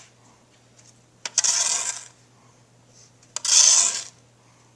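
A snow shovel scraping and pushing through deep snow, two strokes about two seconds apart, each lasting under a second.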